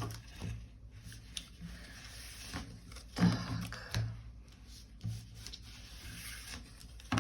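Tarot cards being turned over and handled on a table: soft rubbing and a few light taps as cards are laid down.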